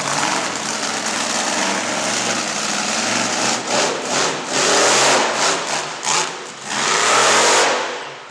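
Monster truck engine running hard, revving up in loud surges about halfway through and again near the end, then dropping off suddenly.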